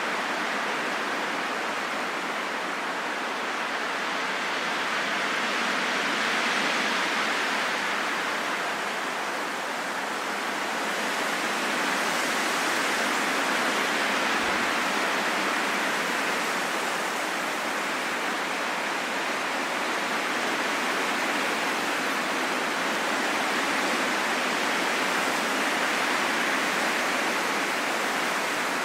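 Steady rain falling in a forest, a dense even hiss that swells and eases slowly.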